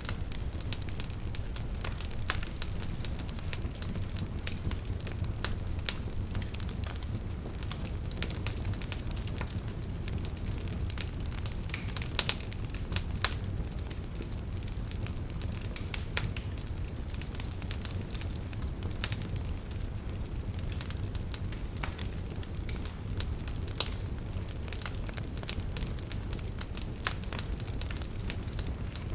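Wood fire burning in a fireplace: steady low rumble of the flames with frequent irregular crackles and occasional louder pops as the logs burn.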